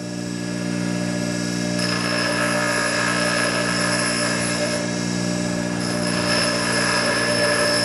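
Electric grinding wheel starting up and running with a steady motor hum. About two seconds in, the wheel bites into the work, adding a harsh, whining grinding noise as a small cove is cut. The grinding breaks off for about a second midway, then resumes until near the end.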